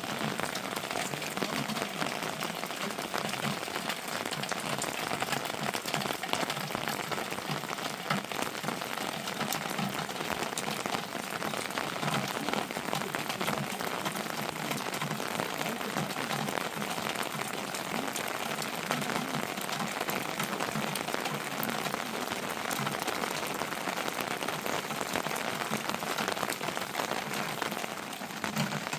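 Rain falling steadily, an even rushing patter dotted with fine drop ticks.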